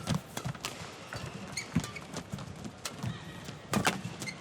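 Badminton rally: sharp strikes of rackets on the shuttlecock, landing roughly every half second to a second, mixed with players' footsteps on the court.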